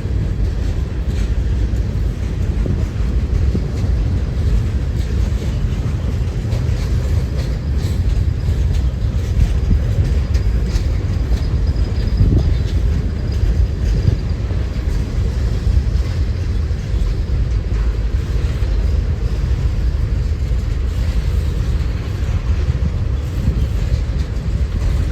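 Strong wind buffeting the microphone, a steady low rumble, over a train running past.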